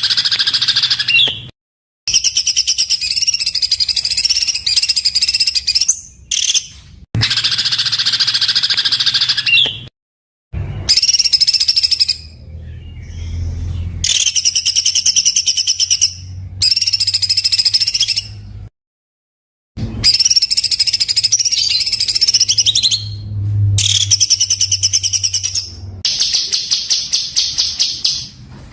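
Songbird song of the harsh, rapid-fire 'tembakan' type: bursts of fast, closely packed repeated notes, each lasting a few seconds and ending abruptly in short silent gaps.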